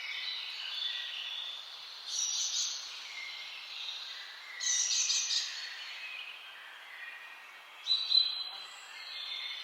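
Birds singing and chirping, several calls overlapping, with three louder song phrases about two, five and eight seconds in.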